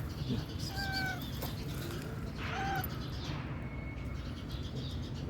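A young tabby cat meowing twice, two short meows about a second and a half apart, over a steady low background rumble.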